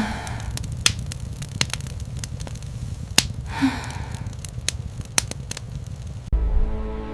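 Crackling fire: irregular sharp pops and snaps over a low steady rumble. Music comes in near the end.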